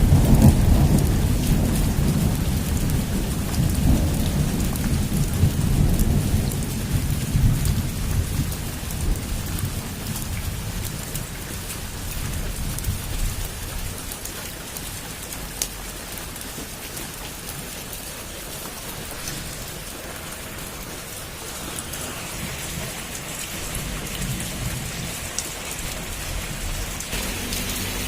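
Heavy rain falling on a roof in a steady hiss, with a long low thunder rumble loudest at the start that dies away over about ten seconds.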